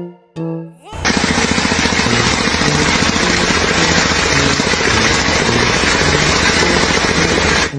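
Loud machine noise with a fast, even pulse, like a powered construction tool or engine at work. It starts abruptly about a second in and cuts off suddenly.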